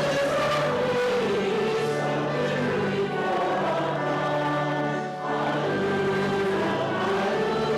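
Many voices singing a hymn together over steady held low accompaniment notes, with a short pause for breath between phrases about five seconds in.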